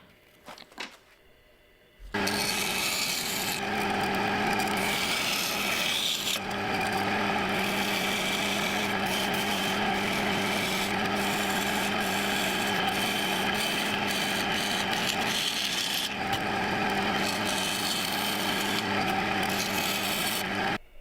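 A power tool running with a steady hum and an abrasive rubbing sound as it works the knife. It starts about two seconds in and stops just before the end.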